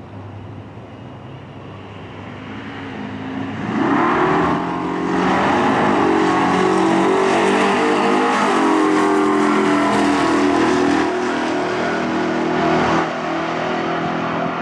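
Two truck engines at full throttle on a drag strip, launching one after the other and revving up through the gears with stepped rises in pitch. The sound swells loud about four seconds in and eases off near the end.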